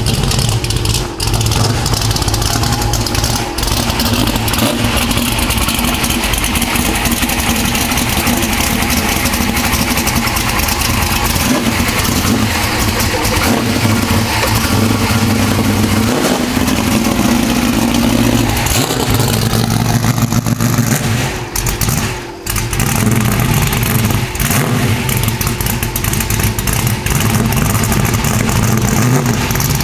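Car engine running through a full exhaust with 3-inch Goerlich X107 mufflers, a steady exhaust note whose pitch shifts a few times, with one brief dip in level about two-thirds of the way through.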